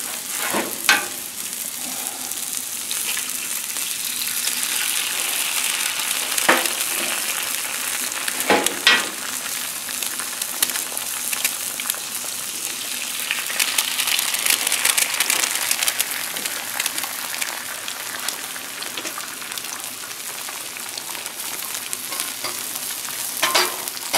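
Eggs, onions and potatoes frying on a Blackstone steel flat-top griddle: a steady sizzle that swells for a few seconds about halfway through. A few sharp taps come in the first nine seconds or so.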